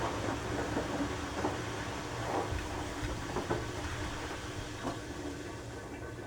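Beko washing machine running mid-cycle: a steady motor hum and the rumble of the turning drum, with scattered soft knocks, easing off a little near the end.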